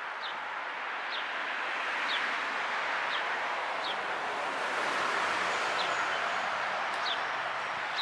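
A small bird giving short, high chirps every second or so over a steady rushing noise.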